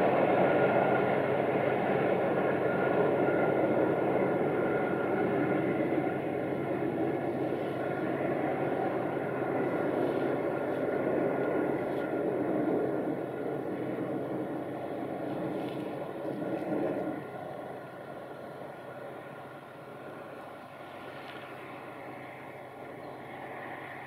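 Passenger train running away round a curve, the steady rumble of its wheels on the rails fading as it recedes, then dropping off sharply about seventeen seconds in.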